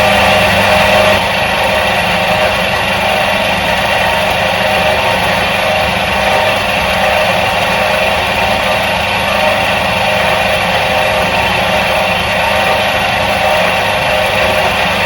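Electric motor of a 1977 Soviet washing machine running steadily: a constant hum with several steady tones over it, dipping slightly in level about a second in.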